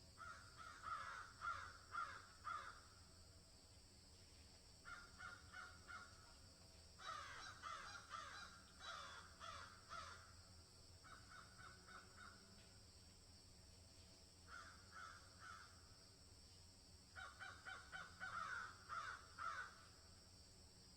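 Birds calling in about six bouts of quick repeated notes, with gaps of a second or two between bouts, over a steady faint hiss.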